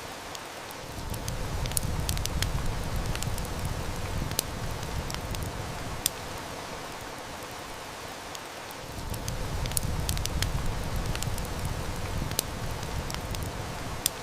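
Steady hiss of heavy rain, with sharp snaps and pops of a wood fire crackling scattered through it. A low rumble of distant thunder swells up twice, each lasting about five seconds.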